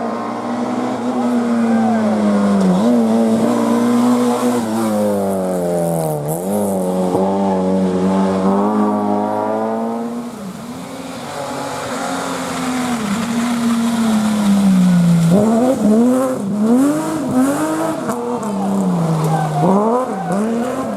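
Historic rally car engine revving hard through the gears: the pitch climbs and drops at each change. It fades about halfway, then comes back with a run of quick rev rises and drops near the end.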